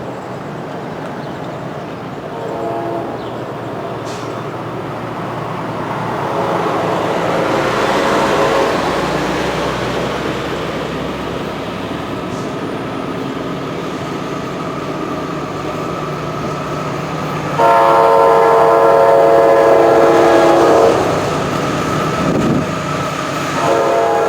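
A GE CW44AC diesel locomotive's air horn sounding over the rumble of an approaching freight train: a short, faint horn note a few seconds in, the train noise growing louder, then a long loud horn blast about two-thirds of the way through and another starting just before the end.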